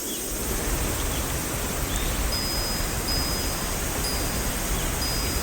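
Steady rain, an even hiss, with faint short chirps of birds now and then and a thin high tone on and off in the second half.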